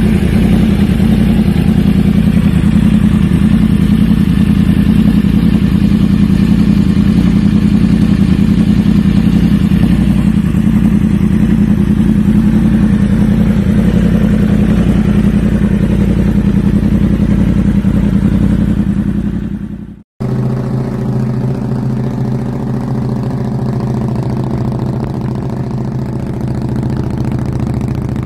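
Superbike engine running steadily through its exhaust, fading out about twenty seconds in. After a brief gap, another motorcycle idles with a steady, even note.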